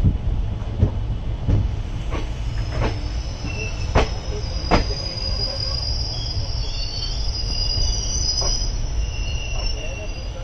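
Passenger train rolling slowly on steel rails over a low rumble, with irregular metallic clanks. A high-pitched wheel squeal sets in a couple of seconds in and holds on and off.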